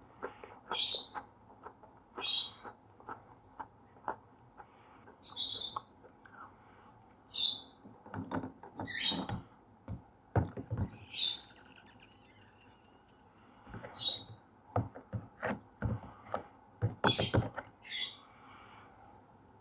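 Slate pencils being bitten and chewed close to the microphone: a string of short, sharp, high crunches at irregular intervals, with softer clicks and grinding between them.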